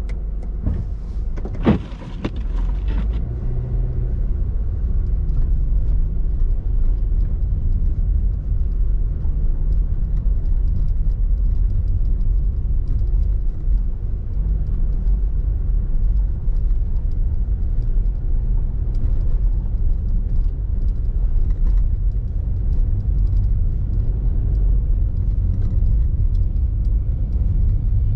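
Steady low rumble of a car being driven, its road and engine noise heard from inside. There is a single sharp knock about two seconds in.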